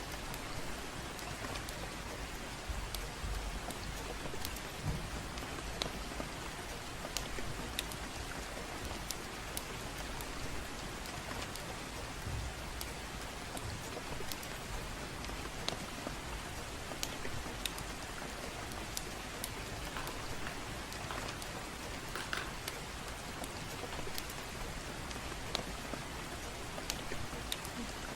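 Steady gentle rain as an even hiss, over which a fireplace crackles with scattered sharp pops.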